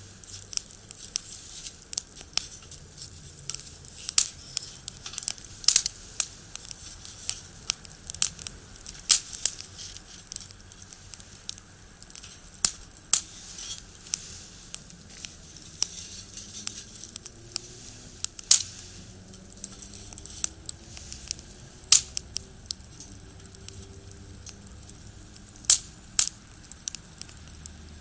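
Firewood burning in a small box stove, crackling steadily with sharp pops, a few of them louder. A low hum sits underneath, with a faint passing vehicle about halfway through.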